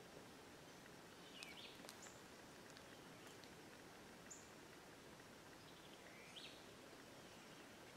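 Near silence in woodland, broken by a few faint, short bird calls: a brief down-sweeping chirp about a second and a half in, short high chips around two and four seconds, and a rising chirp past six seconds.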